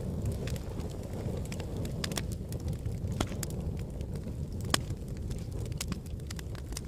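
Wood fire burning in a fireplace: a steady low rumble of flames with scattered sharp crackles and pops, one louder pop a little under five seconds in.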